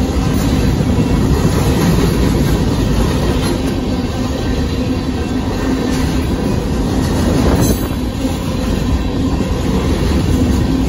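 Union Pacific covered hopper grain cars rolling past: a loud, steady rumble of steel wheels on the rails, with one brief sharp clank about two-thirds of the way through.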